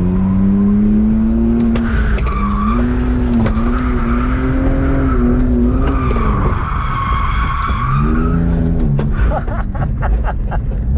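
BMW E46 drift car engine held at steady revs while drifting, dipping and climbing again in the second half, with the tyres squealing twice, briefly about two seconds in and longer around six to eight seconds in.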